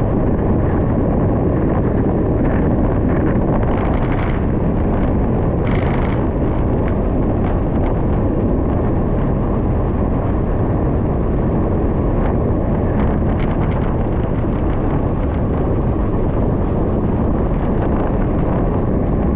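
Steady wind rumble on the microphone of a moving gravel bike, mixed with tyre noise on a gravel road and scattered small clicks and rattles.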